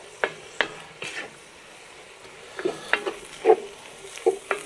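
Minced meat and onions sizzling as they fry in a cast-iron Dutch oven, while a wooden spatula scrapes and knocks against the pot in short, uneven strokes as the mixture is stirred.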